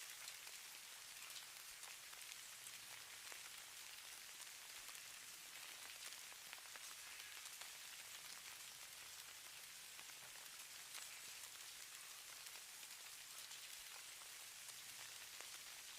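Faint, steady hiss of falling snow, sprinkled with many tiny ticks of flakes landing on a surface.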